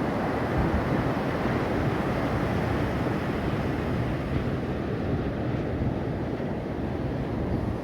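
Ocean surf with wind buffeting the microphone: a steady rushing noise, heaviest in the low range.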